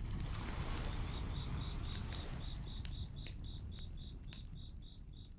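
Campfire crackling with scattered sharp pops over a low rumble, and a cricket chirping in a steady train of about four short chirps a second that starts about a second in; everything slowly fades out.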